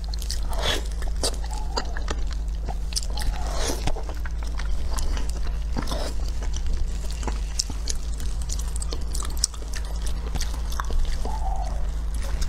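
Close-up chewing of fatty pork belly: wet smacking and sharp mouth clicks in quick succession, over a steady low hum.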